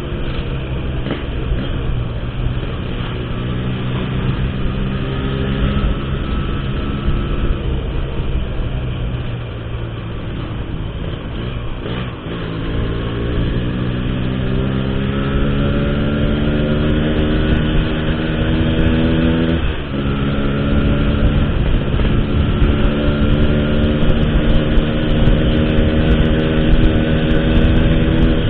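135cc motorcycle engine running through an Altech C17 aftermarket exhaust under way, its pitch climbing slowly as it pulls through a gear. The pitch drops sharply at an upshift about twelve seconds in and again about twenty seconds in, each time climbing again.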